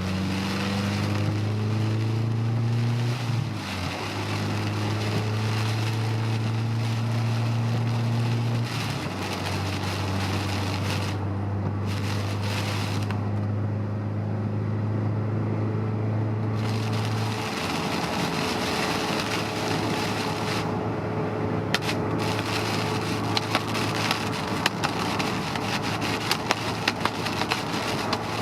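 Honda S2000's four-cylinder engine running at a steady cruise, heard from inside the car over continuous tyre and rain hiss on a wet road; the engine note breaks briefly twice and changes pitch about two-thirds of the way in. A scatter of sharp ticks near the end.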